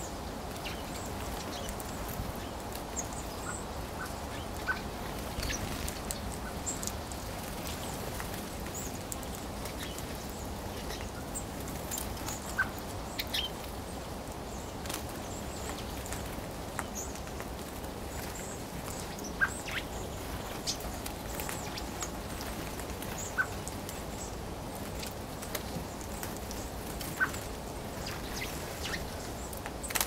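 Bird feeder ambience: scattered sharp ticks and brief high chirps, with a few louder clicks at irregular intervals, over a steady low background rumble. The ticks and chirps fit a hawfinch pecking and calling at the feeder.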